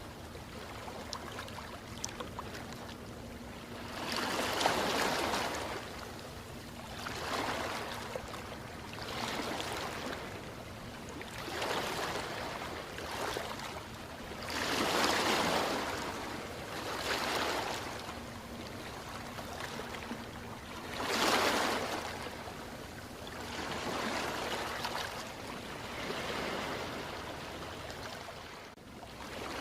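Ocean waves washing in, the hiss of water swelling and fading every two to three seconds, with three larger surges standing out.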